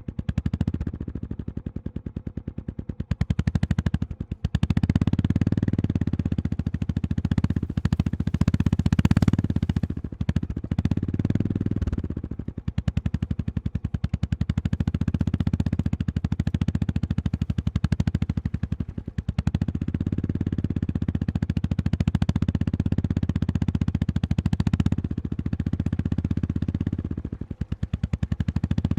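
Honda GB350S air-cooled single-cylinder engine running under a rider, its exhaust beats coming in a rapid even train. The throttle opens and closes repeatedly, with several brief drops in level as it is rolled off and picked up again.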